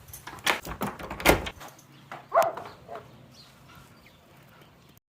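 A door opening with several clunks and knocks, and a brief whine about two and a half seconds in.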